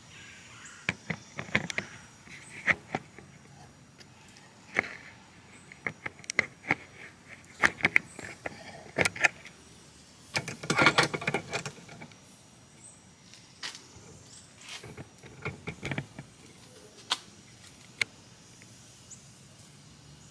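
Metal hand tools clinking and rattling against engine parts in scattered sharp strikes, with a longer dense rattle about halfway through.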